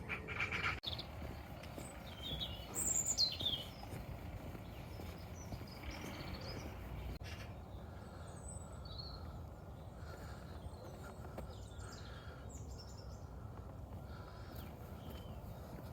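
Small birds chirping and calling over a steady low outdoor rumble, with a few high, quickly falling calls about three seconds in.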